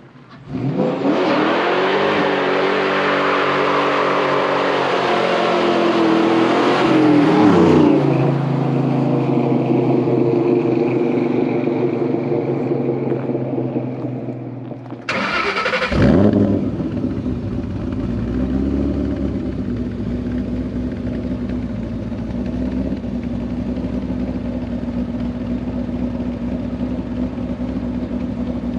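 Ford Mustang modular V8 on a loud aftermarket exhaust accelerating hard in a drive-by, pitch climbing for several seconds and then falling away as it passes. About halfway through comes a second short, loud surge that drops sharply into a steady low rumble.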